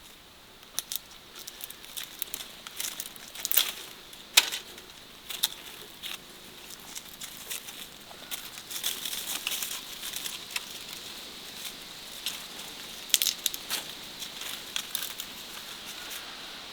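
Irregular crinkling and crackling from something being handled, with scattered sharp clicks; the loudest two come about three and a half and four and a half seconds in.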